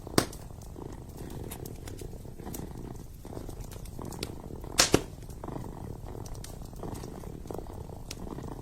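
Kitten purring steadily, with a log fire crackling alongside: a few sharp pops, a loud one just after the start and a loud close pair about five seconds in.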